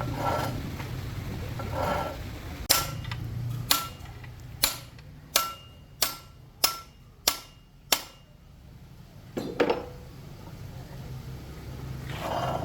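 Hammer striking metal eight times, the blows coming closer together as they go, each with a short metallic ring, followed by a softer double knock.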